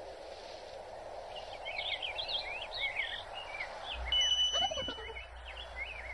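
Garden birds chirping: many quick, short chirps over a steady background hiss, with a held high whistle-like note about four seconds in that lasts about a second.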